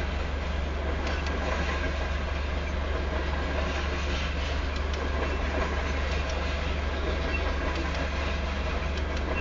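Freight train of covered grain hopper cars rolling past at about 22 mph: steel wheels rumbling steadily on the rails, with faint scattered clicks.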